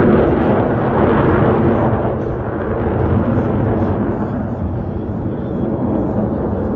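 Jet aircraft flying past with a loud, rushing engine noise, loudest at the start and slowly fading as it moves away.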